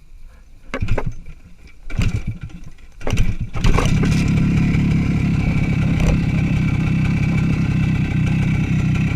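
Motorcycle engine being started: a few short bursts of cranking before it catches about three and a half seconds in, then running steadily.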